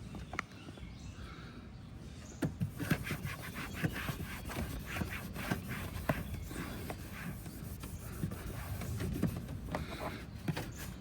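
Rubbing and scraping during hand cleaning of a car interior, with a run of quick clicks and taps, busiest from about two to seven seconds in.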